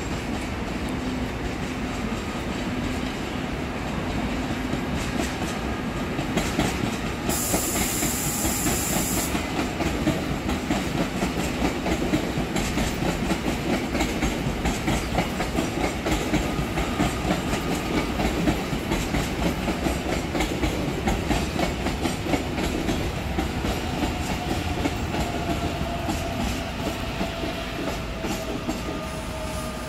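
Electric commuter train approaching and running past close by, its wheels clacking rapidly over the rail joints. A brief high hiss comes about eight seconds in, and near the end a whine falls slowly in pitch as the train slows toward the platform.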